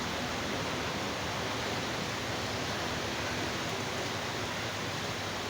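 Steady, even background hiss with no speech or other distinct sound.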